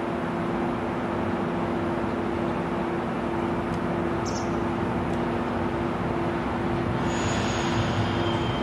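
Railway station and track noise: a steady hum with a constant low tone, while a train approaches slowly over the points. Thin high squeals begin about seven seconds in.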